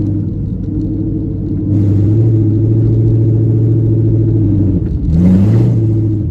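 Car engine running with a steady low drone, briefly revved about five seconds in, with a short burst of hiss.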